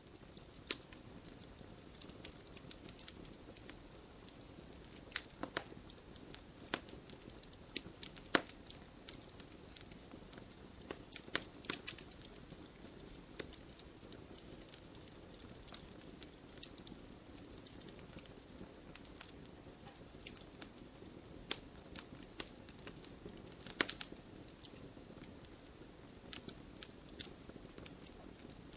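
Wood fire burning in a fireplace: a soft steady hiss with irregular sharp pops and crackles, a few louder snaps among them.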